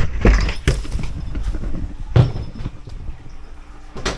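Irregular footsteps and knocks of the camera being handled over a low rumble, with a sharper knock near the end.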